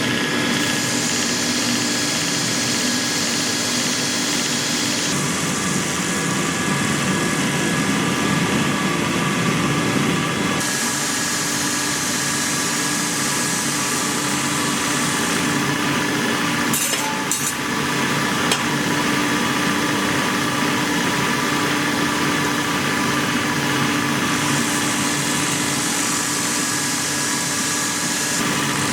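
A motor-driven workshop machine running steadily, its sound shifting abruptly a few times, with a short run of clicks partway through.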